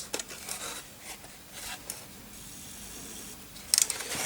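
Steel pliers and a circuit board being handled: scattered small clicks and rubbing, with a faint hiss in the middle and a quick run of clicks near the end.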